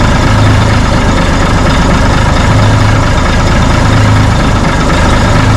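Engine idling steadily as it warms up, a low hum in its note swelling and fading every second or two; the men take it from its sound for a Mack engine.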